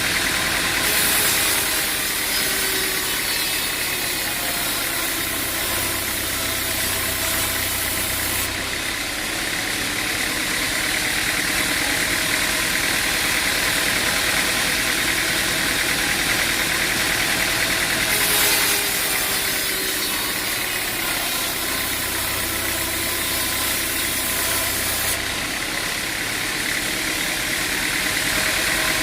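A machine's engine running steadily, loud and unchanging. The same pattern of sounds recurs about every 17 seconds.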